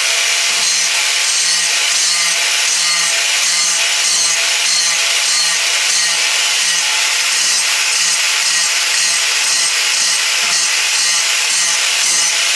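Grinder working the edges of a steel anvil: loud, steady grinding with a faint regular pulse about twice a second as the tool is worked back and forth.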